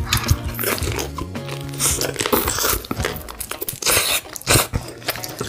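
Crunchy bites and wet chewing of fried chicken close to the microphone, in crackling bursts about two seconds in and again about four seconds in. Background music plays underneath.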